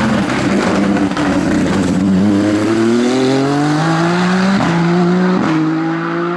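Hillclimb race car engine at high revs, its pitch climbing steadily as the car accelerates, broken twice by quick gear changes in the second half.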